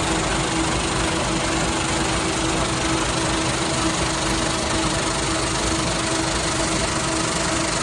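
Steady drone of sawdust-pellet factory machinery running, a constant hum under an even mechanical rumble and hiss with no breaks.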